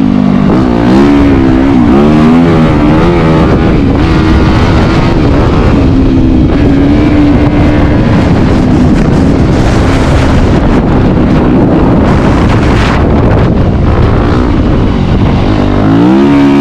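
Yamaha WR250F dirt bike's single-cylinder four-stroke engine running under way, its revs rising and falling with the throttle, loudest and climbing again near the end.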